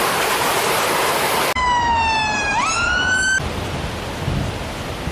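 An emergency siren sounds for about two seconds, its pitch sagging and then sweeping up, between stretches of loud rushing water. It starts and stops abruptly, and the water after it is quieter, with low gusty rumbles.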